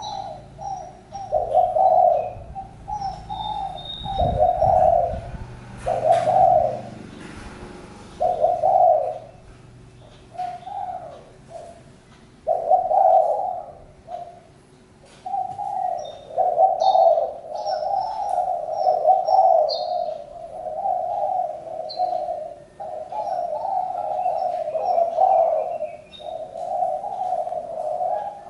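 Spotted dove cooing in repeated phrases, separate at first and almost continuous in the second half. Faint high chirps of small birds come in between, and there is a low thump about four seconds in.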